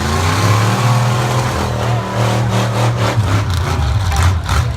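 Lifted truck's engine revving hard, its pitch climbing over the first second and then held high, turning rougher near the end.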